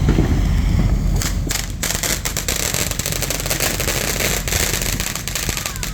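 Firework fountain crackling: a dense, rapid run of sharp pops that sets in about a second in.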